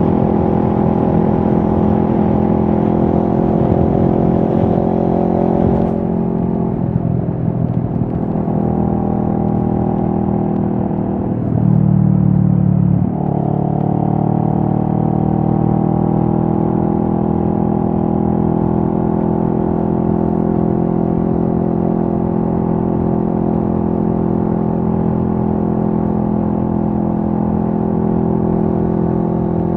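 CFMoto 650NK parallel-twin motorcycle engine running at mostly steady revs. Its pitch wavers and drops between about six and thirteen seconds in, with a brief louder, lower stretch near twelve seconds, then it settles back to a steady pitch.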